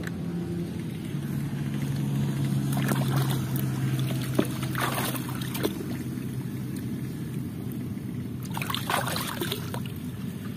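Water trickling and splashing as toy vehicles are washed, over a steady low hum, with a few short splashes.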